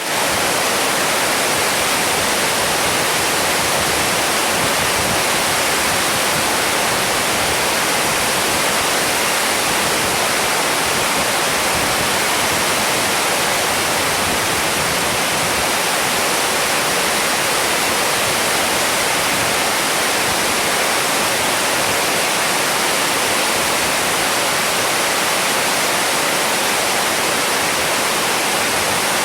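Heavy storm rain pouring down steadily, a dense even hiss with no single drops or thunder standing out.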